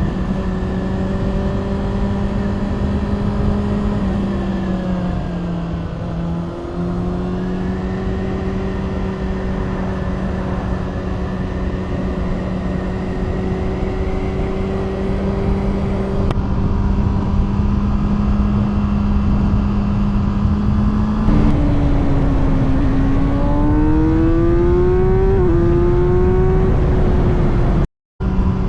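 2020 Kawasaki Ninja ZX-6R's inline-four engine through an SC-Project aftermarket exhaust, held at steady revs while cruising with a brief dip in pitch about six seconds in. In the last third it climbs in a series of rising revs, with a gear change, and the sound cuts out for a split second near the end.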